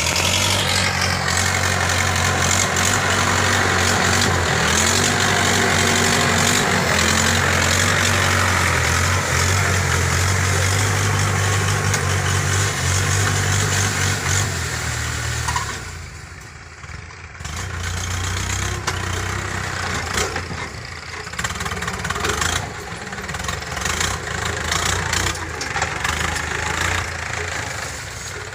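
Mahindra 475 tractor's diesel engine running steadily. About fifteen seconds in it drops quieter for a couple of seconds, then runs on less evenly.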